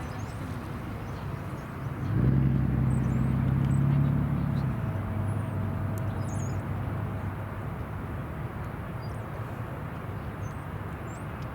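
A low engine rumble comes in suddenly about two seconds in and eases off a couple of seconds later, over a steady outdoor background hiss. Small birds chirp throughout.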